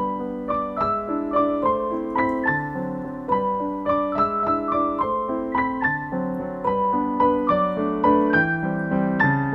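Background piano music: a gentle melody of single struck notes over held chords, several notes a second.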